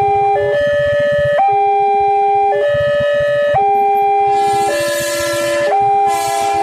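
Railway level-crossing warning alarm sounding an electronic two-note signal, a higher note and a lower note alternating about once a second, warning that a train is approaching. A hissing noise joins it about four seconds in.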